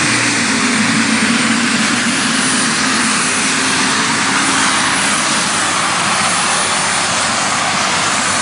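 Unlimited super stock pulling tractor's alcohol-fuelled engine running flat out through a pull, loud and steady, with a high whistle riding above the engine noise. The run is smooth, with no sign of trouble.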